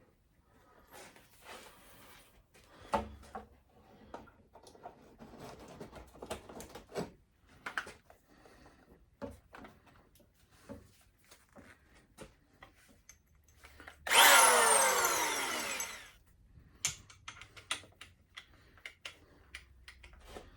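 A power drill runs in one burst of about two seconds, its pitch falling, amid scattered small clicks and knocks of tools being handled.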